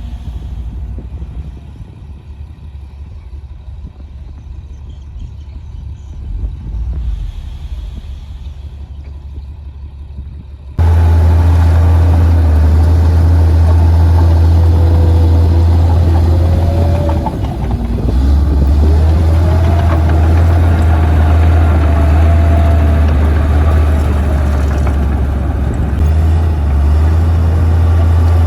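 Komatsu D58P bulldozer's diesel engine running with a heavy low drone. It turns abruptly much louder about a third of the way in, and its pitch rises and falls now and then as the engine speed changes.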